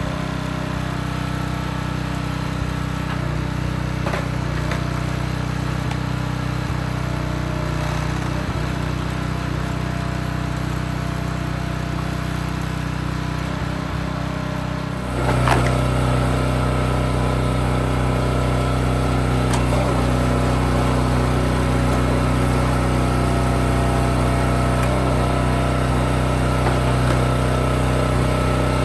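Engine running steadily, getting louder about halfway through with a brief knock, then holding at the higher level.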